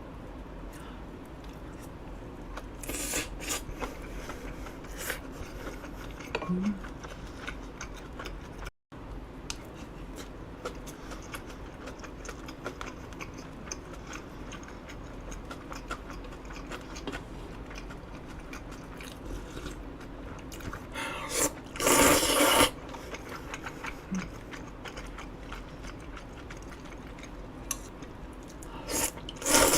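Eating sounds: a person chewing and biting, with cutlery scraping and clicking against a bowl. A few louder scrapes stand out about a third of the way in, about three quarters of the way in, and near the end.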